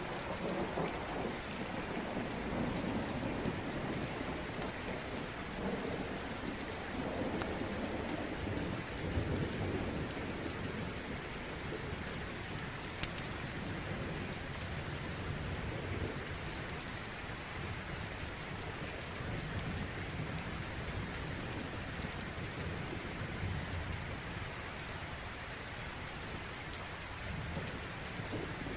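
Steady rain with rolling thunder rumbling low through roughly the first ten seconds and again more faintly about twenty seconds in.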